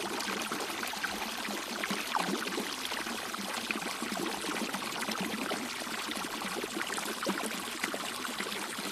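Steady rush of running water, an even splashing noise with no distinct strokes.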